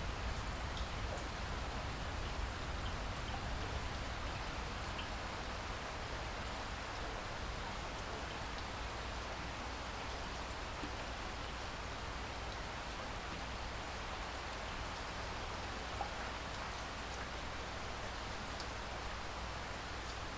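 Steady rain falling, an even hiss with scattered individual drop ticks and a low rumble underneath.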